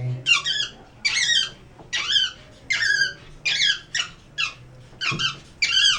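Black-capped (tufted) capuchin monkey giving a run of high, wavering squeaky calls, about eight in six seconds: the vocalising of a stressed monkey being handled.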